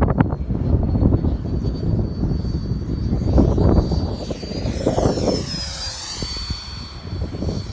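Radio-controlled F-4 Phantom jet with a 90 mm electric ducted fan making a low, fast pass, its high fan whine sweeping down and back up in pitch as it goes by about five to six seconds in. Strong wind buffets the microphone, loudest in the first half.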